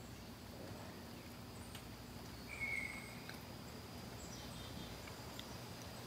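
Birds calling in woodland: one clear whistled note about two and a half seconds in, with a few faint high chirps, over a soft outdoor background.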